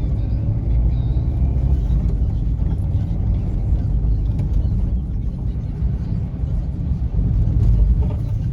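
A car on the move, with a steady low rumble of engine and road noise heard from inside the cabin.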